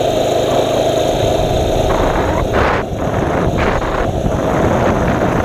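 Mini bike's small engine running steadily while riding along, with a constant rushing noise over it.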